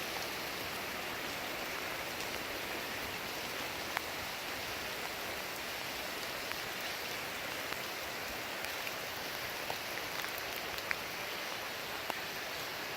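Steady rain falling: an even hiss with a few sharper ticks of single drops.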